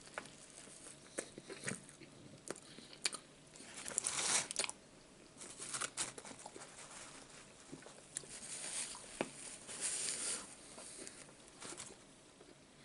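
A man biting into and chewing a burger close to the microphone: irregular soft crunches and wet mouth clicks, a little louder about four seconds in and again around ten seconds.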